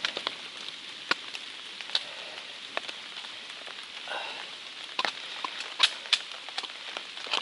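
Light rain falling with a steady hiss, and big drops striking an open umbrella overhead as scattered sharp taps at irregular intervals.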